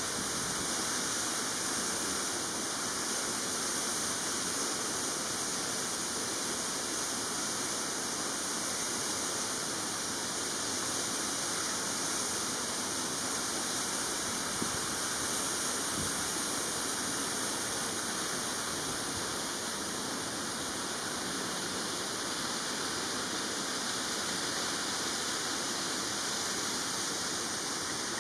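Steady, even rushing hiss, strongest in the high range, with a faint click about halfway through.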